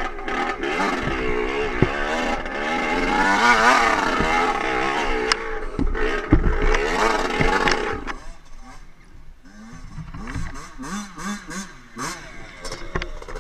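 Dirt bike engine revving up and down, then falling away about eight seconds in to a quieter, wavering note with scattered clicks and clatter.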